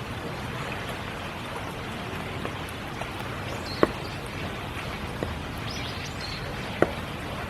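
Steady spring rain, with large drops landing close by in sharp plinks, the two loudest about four and seven seconds in.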